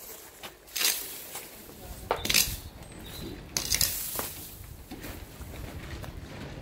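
Hard objects knocking and clinking as things are moved about and set down: a handful of separate sharp clinks, the loudest a little after two seconds in.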